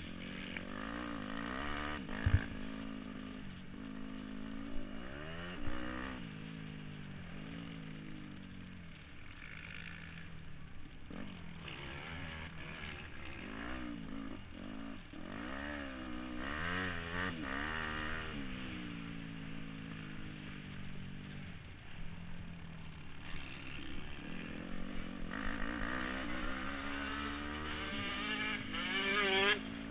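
Motocross bike engines revving up and down as they run the track, the pitch climbing and dropping over and over, with more than one engine at times. A sharp knock about two seconds in.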